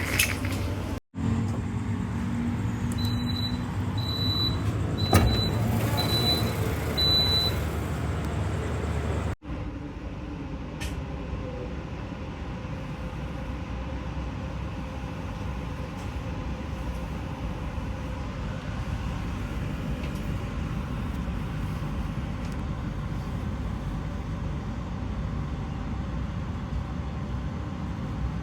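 Passenger train carriage ambience: a steady low rumble and hum. A run of five short high beeps comes a few seconds in, and the sound drops out abruptly twice, about a second in and again about nine seconds in.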